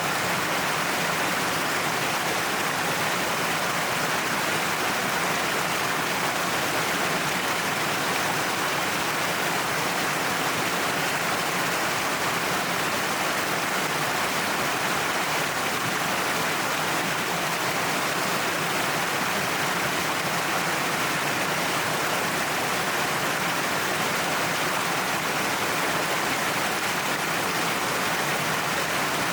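Waterfall pouring down a cliff face, a steady, even rush of falling water.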